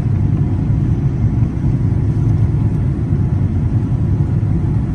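Airliner cabin noise: the steady low rumble of jet engines and rushing air heard from inside the passenger cabin.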